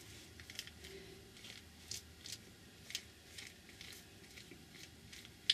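Faint, scattered light taps and clicks of craft materials being handled on a work table, with one sharper click near the end.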